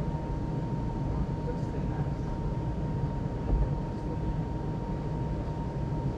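JCB Pothole Pro running, heard from inside the cab: a steady low engine rumble with a constant high whine over it, and a single thump about three and a half seconds in.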